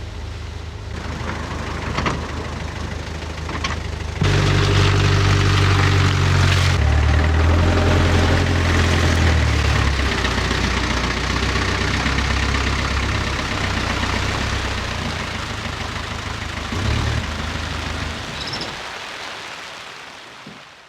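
A vehicle engine running and working under load. It steps up in pitch and loudness about four seconds in, holds steady, then fades away over the last few seconds.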